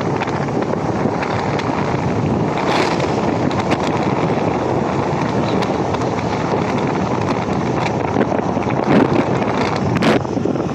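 Steady wind buffeting on the microphone of a rider on a moving Honda Activa 6G scooter, with road noise beneath. A few short clicks, the clearest one near the end.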